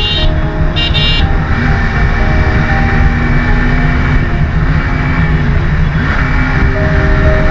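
Motorcycle riding along a road: steady engine and wind rumble, with a short vehicle horn honk about a second in.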